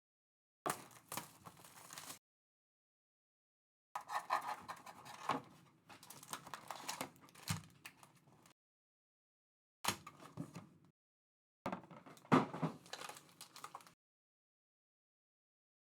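Trading cards and their plastic and foil packaging being handled: scraping and rustling in four bursts, with dead silence between them.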